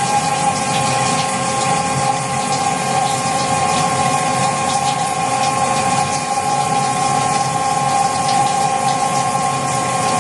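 Emco Turn 220 CNC lathe running: a steady machine whine of several constant tones over a continuous rushing noise like liquid flowing, the sort a coolant pump and coolant stream make.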